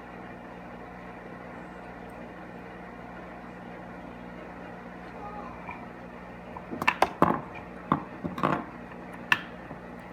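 Small parts of a manual air-suspension switch being handled and fitted: a cluster of sharp clicks and taps in the second half, over a steady background hum.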